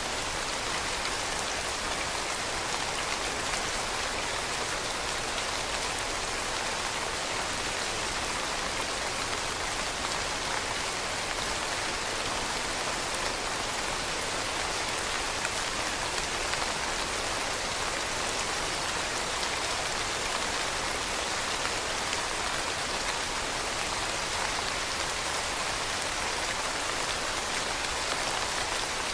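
Steady rain falling on leaves: an even hiss of countless small drops, with no change or let-up.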